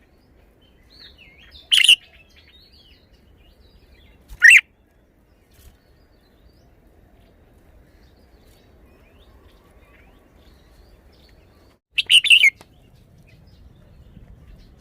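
Red-whiskered bulbul singing short, loud, sweeping phrases with long pauses between them: one a little before two seconds in, another about four and a half seconds in, and a quick run of several notes near the end.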